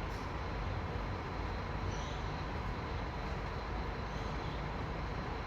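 Steady low rumble and hum of a railway station platform, with no sudden events.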